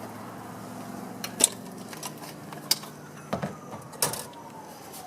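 A few sharp clicks and knocks over a steady low hum, with a faint distant siren sliding down in pitch in the second half.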